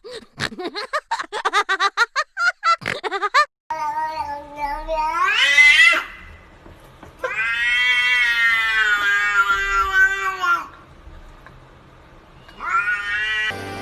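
A cat yowling in long, drawn-out cries: one rising cry about four seconds in, a long, slightly falling one lasting about three seconds, and a short rising one near the end. It starts with a quick run of short, high calls.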